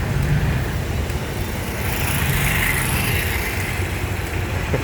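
Heavy vehicle engine running steadily at low revs, a continuous low rumble, amid street traffic noise, with a brief rise of higher hiss about halfway through.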